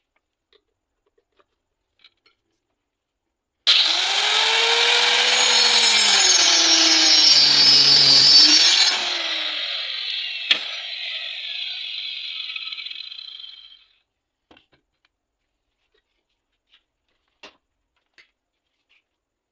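Homemade saw driven by an old washing-machine motor, starting suddenly about four seconds in and cutting loudly for about five seconds, with its pitch wavering under load. It then dies away gradually and stops about ten seconds after it started.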